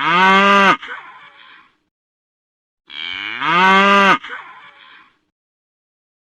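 Bull mooing twice, the same loud moo heard about three seconds apart. Each call drops in pitch at its end and trails off briefly.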